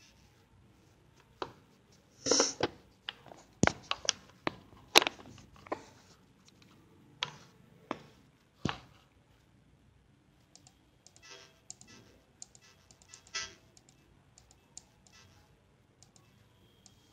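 Irregular sharp clicks and taps, a dozen or so strong ones in the first nine seconds, then lighter scattered ticks, over a faint steady background hiss.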